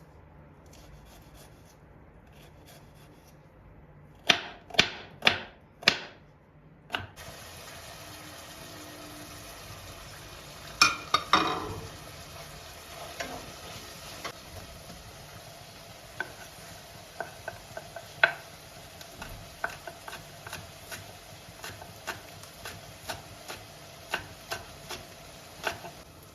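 Food sizzling in a frying pan and being stirred, with scrapes and small clicks of a utensil against the pan. About four to six seconds in there are four sharp knocks before the sizzling starts.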